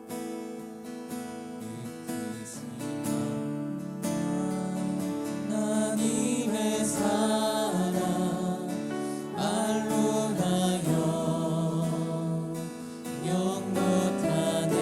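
Worship music: strummed acoustic guitar, with a group of voices singing along from about four seconds in.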